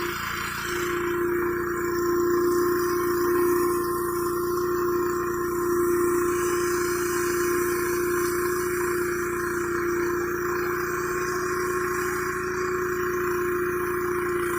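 Gas pressure washer running steadily, its engine and pump holding one unbroken droning tone under the hiss of the high-pressure water spray.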